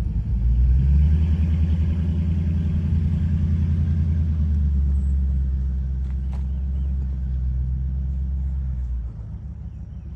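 An engine running steadily with a low, even hum, which cuts off suddenly about nine seconds in.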